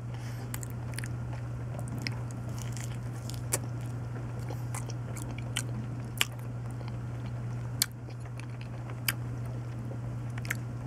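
A person chewing a mouthful of soft, starchy banana, with sharp wet mouth clicks about once a second, over a steady low hum.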